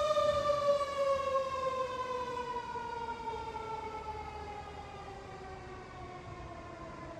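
Fire engine siren in one long falling wail, its pitch sliding slowly down while it fades as the truck moves away.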